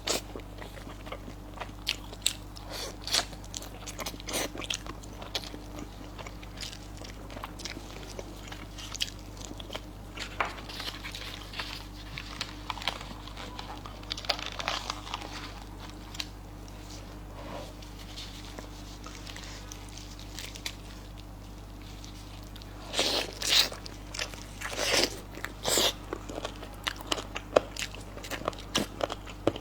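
Close-miked eating: chewing and biting with many short wet clicks and crunches, and a few louder, longer bursts about three quarters of the way through.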